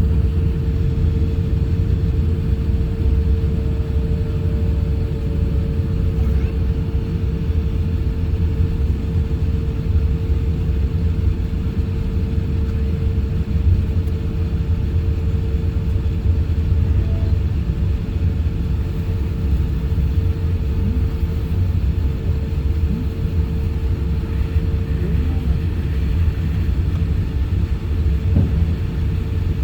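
Airliner cabin noise inside an Airbus A350-1000: a steady low rumble with a constant hum.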